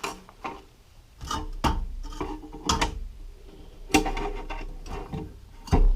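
Hand tools being rummaged through on a workbench: a series of irregular clinks, knocks and scrapes, the loudest about four seconds in and again near the end.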